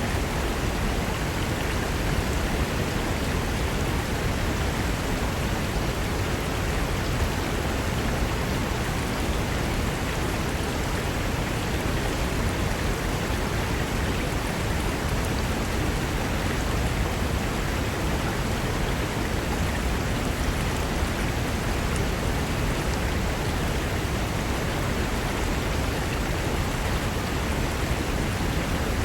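A fast mountain river rushing over rocks: steady, even water noise with no change.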